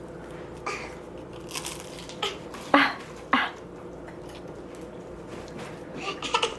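Dinner-table eating sounds: a handful of short clatters and scrapes of cutlery and takeout food containers, the sharpest two in the middle, over a faint steady hum.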